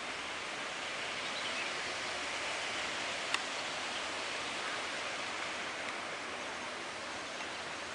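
Steady, even outdoor hiss with one sharp click a little over three seconds in.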